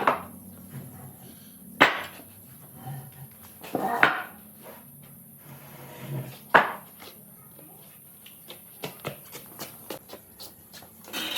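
Workshop knocks: four sharp knocks about two seconds apart, then a string of lighter clicks and taps near the end.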